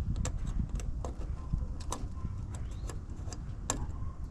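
Irregular sharp clicks and taps of hands and tools working inside an outdoor AC condenser unit, over a low steady rumble.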